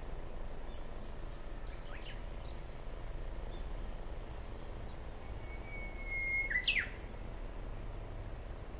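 A small bird calls over steady outdoor background noise: a couple of faint chirps about two seconds in, then near the end a short whistle and two sharp downward-sweeping chirps.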